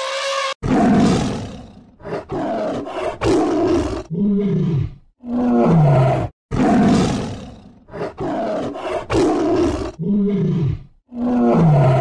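A tiger roaring and growling again and again, about ten loud, rough roars in quick succession, several of them sliding down in pitch. Just before it starts, an elephant's trumpet call cuts off.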